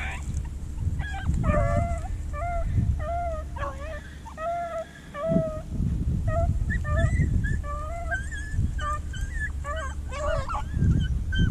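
Rabbit beagles giving tongue on a rabbit's scent: many short, repeated high-pitched yelps from more than one dog, overlapping throughout.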